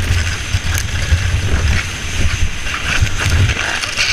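A small racing boat running fast along a narrow waterway: wind buffets the microphone in a gusting low rumble over a steady rush of water and motor noise.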